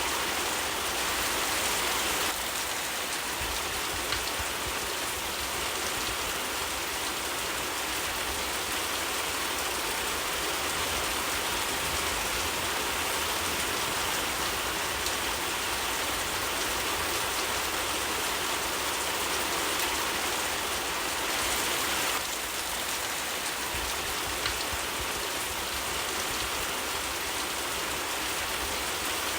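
Steady rain falling on a surface, an even hiss with a few faint single ticks of drops.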